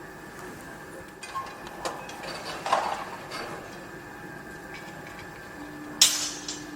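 Construction site noise: a steady machine hum under irregular metallic clanks and knocks that ring briefly, with the loudest a sharp bang near the end.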